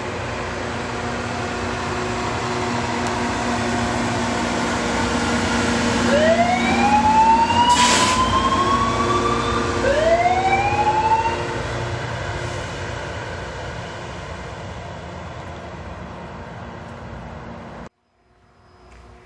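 Loram rail grinder train running, its steady machine drone under a rough noise growing louder to a peak midway and then fading. Two rising whines come about six and ten seconds in, with a sharp crack between them. The sound cuts off abruptly near the end.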